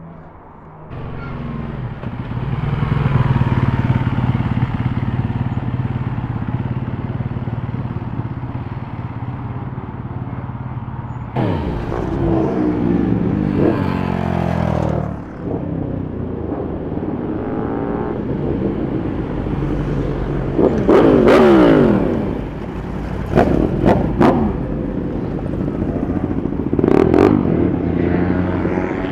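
Superbike engines running loudly: a steady engine note for about ten seconds, then several sharp revs that rise and fall in pitch, a few of them in quick succession near the end.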